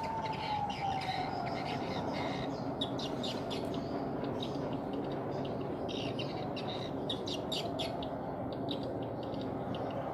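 Small birds chirping repeatedly over a steady background rush. A faint steady hum slides lower in pitch over the first couple of seconds.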